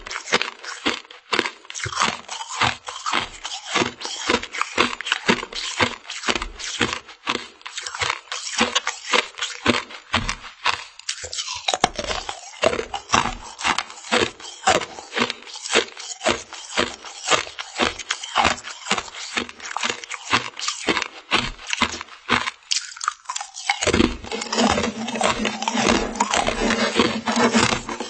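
Close-miked crunching and chewing of frozen mermaid-tail jelly candy: a quick, unbroken run of crisp crunches, several a second. A steadier, fuller sound joins the crunching near the end.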